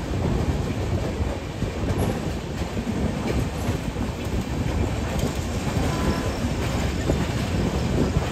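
Tamil Nadu Express running at speed: steady rumble of the coach wheels on the rails.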